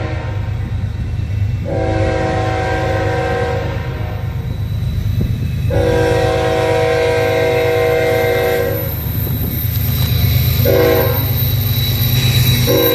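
Multi-chime air horn of a Union Pacific GE Evolution-series diesel locomotive sounding for a grade crossing: two long blasts, a short one, and a final long blast starting near the end, the standard long-long-short-long crossing signal. Under it runs the steady low rumble of the passing train.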